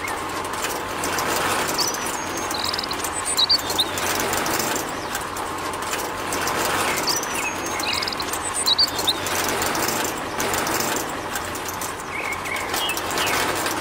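Miniature model concrete mixer running: its small motor turns the drum, which churns a wet mix with a steady rough mechanical noise. A few short bird chirps come and go over it.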